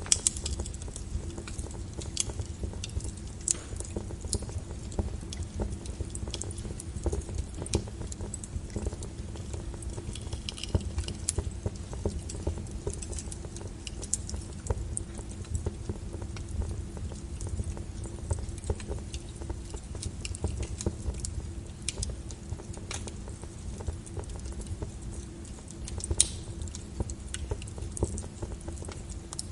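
Log fire burning steadily, with a low rumble of flame and frequent sharp crackles and pops, a few louder snaps scattered through.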